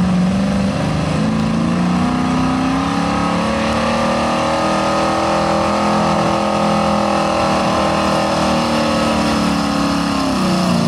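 Four-wheel-drive pickup truck's engine at full throttle pulling a weight sled. Its pitch climbs over the first several seconds, holds high, then falls away near the end.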